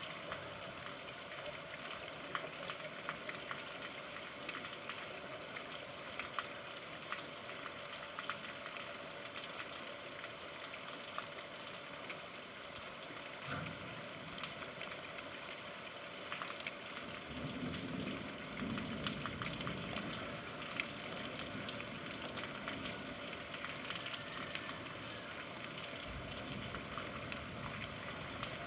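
Rain falling steadily, a continuous hiss with scattered ticks of drops. About halfway through a low rumble joins underneath and grows stronger.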